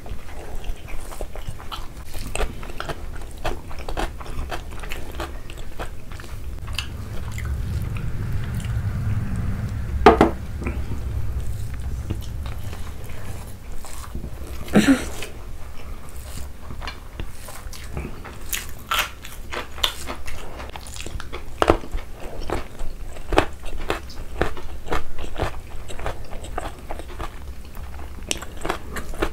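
Close-miked eating sounds: chewing and mouth smacks of rice with chicken liver curry and egg curry, eaten by hand, a steady run of short clicks and smacks with two louder ones around the middle.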